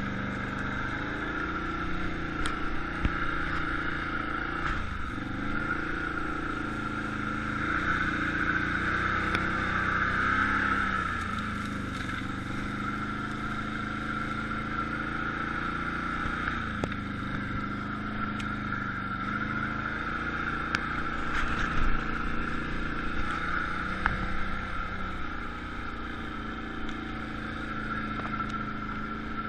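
Quad bike (ATV) engine running under way, its pitch dipping and climbing again every few seconds as the throttle is eased and opened, with a few knocks about two-thirds of the way in.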